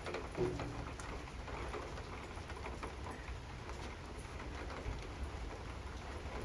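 Light rain pattering over a steady low rumble, with a brief low sound about half a second in.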